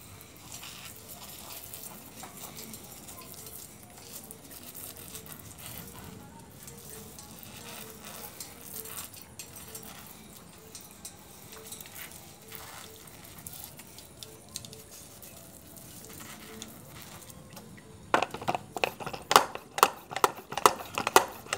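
Water from a sprayer hissing and pattering softly onto a lovebird during its bath. About three seconds before the end it turns into loud, rapid rattling and clicking.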